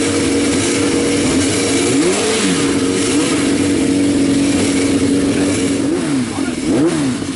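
Motorcycle engines running: one holds a steady note while others rev up and back down in pitch, once about two seconds in and several times near the end.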